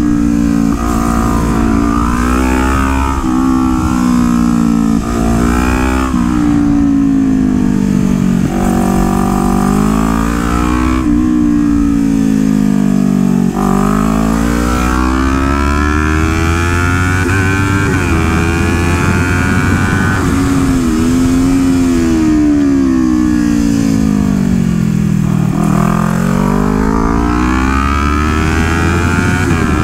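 Kawasaki Ninja 400's parallel-twin engine being ridden around a kart track. Its note climbs as the bike accelerates out of corners and drops as it slows for the next, rising and falling about half a dozen times.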